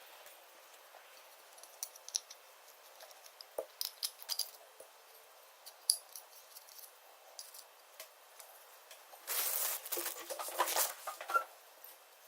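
Small hard parts being handled on a workbench: scattered light clicks and clinks, then a louder scraping, rustling stretch about nine seconds in lasting two seconds.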